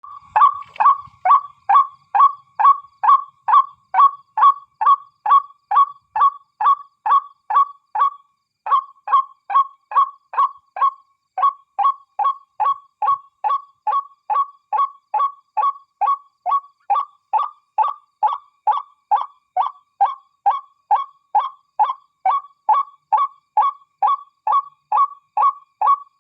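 A bird's call: a short, falling note repeated evenly at about two to three notes a second, with one brief break about eight seconds in.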